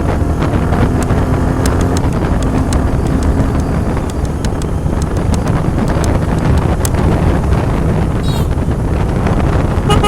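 Motorcycle engine running at riding speed, with wind rushing over the microphone.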